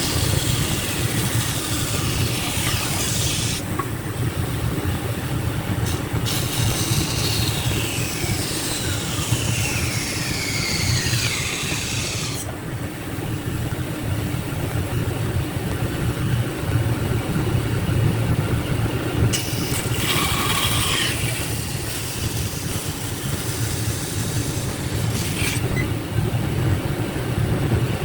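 A machine running steadily with a low hum. Repeated falling high-pitched sweeps sound over it in the first half, and a brief high-pitched noise comes about two-thirds of the way in.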